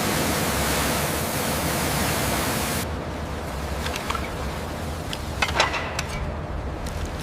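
A steady rushing hiss that starts suddenly, loses its brightest part about three seconds in, and carries scattered short clicks and knocks in its second half.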